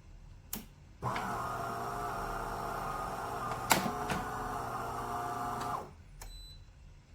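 De'Longhi Dinamica Plus espresso machine's internal motor or pump running steadily for about five seconds, starting and stopping abruptly, with sharp clicks before, during and after the run.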